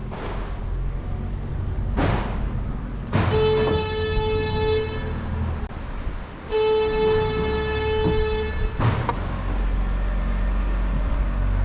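Motorboat horn sounding two long blasts, about two seconds each and a second and a half apart, over the low, steady running of a boat engine on a canal.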